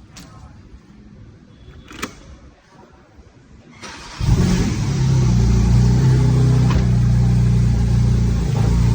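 Porsche 718 GT4 RS's 4.0-litre flat-six engine starting about four seconds in, after a few small clicks, then settling into a loud, steady idle.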